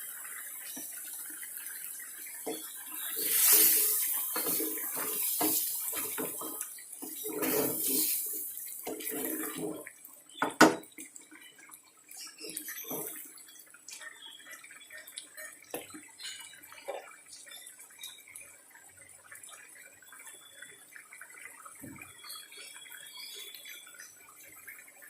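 Water from a tap running and splashing into a sink in uneven gushes for several seconds, then stopping. Just after, one sharp knock, followed by scattered light clinks and taps.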